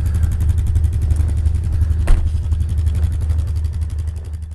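An engine running steadily at idle, with a fast, even pulsing and a single knock about two seconds in.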